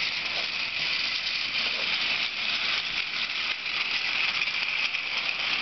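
Motorized toy trains running on a plastic track: a steady high whirring of small motors with the wheels rattling along the track.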